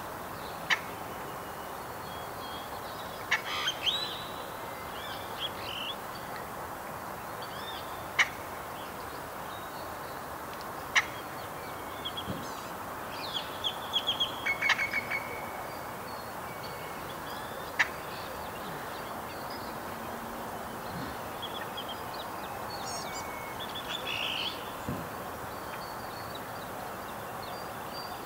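Birds chirping and calling on and off over a steady background hiss, with four sharp clicks at intervals.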